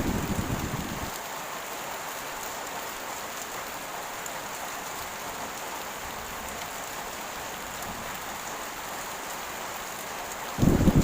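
Heavy rain falling steadily. A low rumble of thunder dies away in the first second, and another rumble sets in suddenly near the end.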